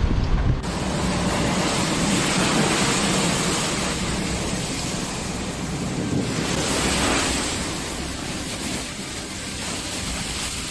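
Steady rushing noise of storm wind and surf, swelling about six seconds in.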